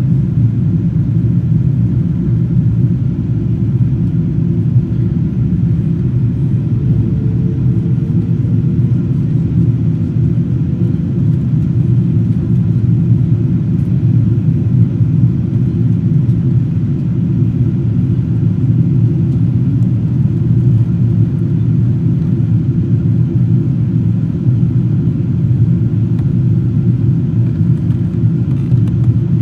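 Steady low rumble inside the economy cabin of a Boeing 777-200ER in flight: the drone of its Rolls-Royce Trent engines and airflow over the fuselage, unchanging throughout, with a faint rising tone about seven seconds in.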